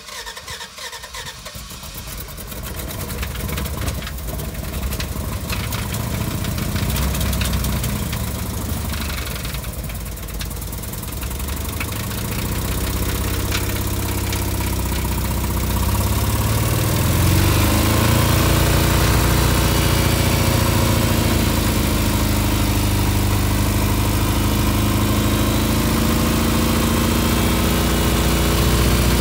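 Pickup truck engine running just after starting, then revving up over a few seconds and held at high revs.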